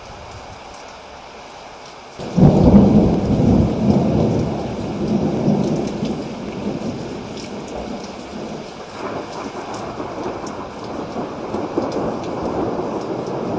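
Steady rain with a sudden close thunderclap a little over two seconds in, its rumble rolling on and slowly dying away, swelling again around the middle.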